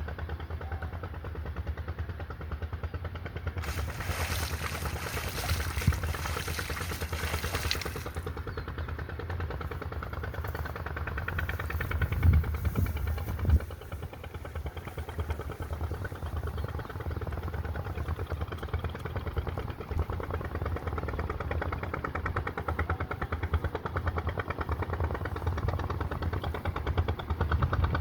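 A small engine running steadily with a fast, even chugging. A few seconds of hissing, rushing noise come in about four seconds in.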